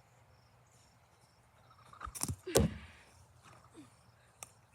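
Two sharp knocks about half a second apart, about two seconds in, the second louder with a brief ringing tail, then a small click near the end.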